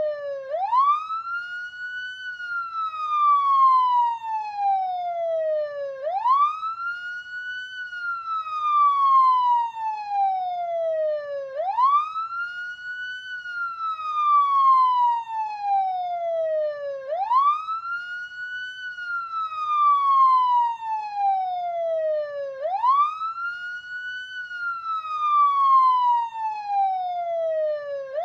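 Canadian police siren sounding a slow wail: each cycle sweeps up quickly, then falls slowly, repeating about every five and a half seconds.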